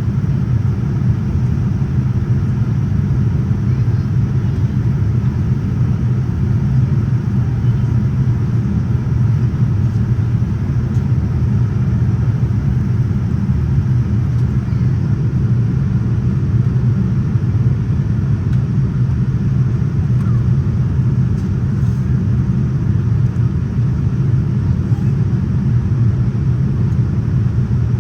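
Steady low rumble of airflow and engines inside the cabin of a Boeing 787-9 airliner in flight.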